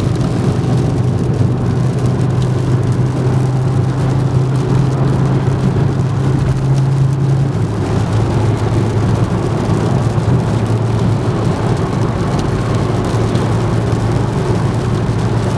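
VW Golf Mk4 2.3 V5 engine running steadily at idle through a modified exhaust, a low, even drone. One of its tones drops away about halfway through.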